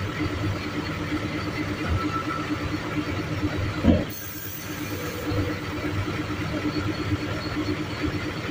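Diesel truck engine idling with a steady, pulsing hum. There is a short knock about four seconds in, and the hum is briefly quieter after it.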